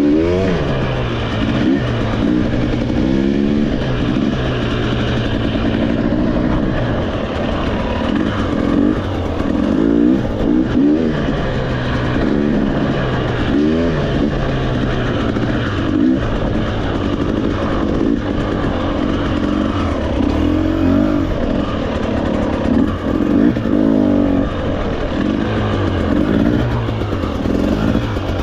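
Trail motorcycle engine being ridden, its pitch rising and falling again and again as the throttle opens and closes.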